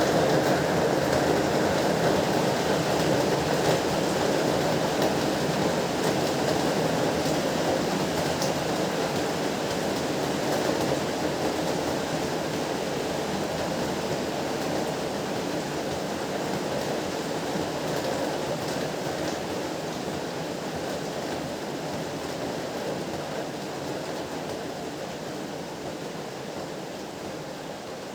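Heavy rain falling steadily, a dense even hiss that gradually grows quieter throughout.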